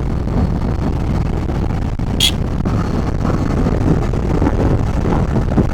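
Motorcycle riding along a road: a steady low rumble of engine and road noise, heard through a microphone inside the rider's face mask under the helmet. A brief high-pitched beep sounds about two seconds in.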